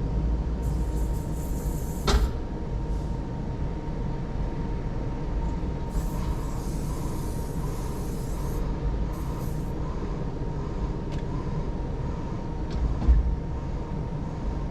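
JCB Pothole Pro's diesel engine running, heard from inside the cab as a steady low rumble with a thin steady whine. There are short spells of hiss, a sharp knock about two seconds in and a thump near the end.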